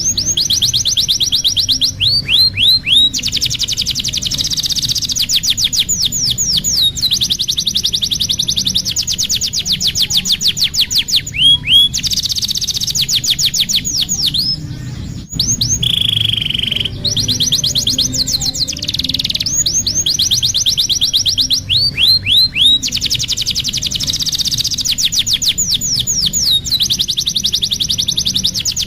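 Domestic canary singing: long rolling trills of rapid, evenly repeated high notes, broken by short downward-swooping notes between the rolls, with a brief pause about halfway.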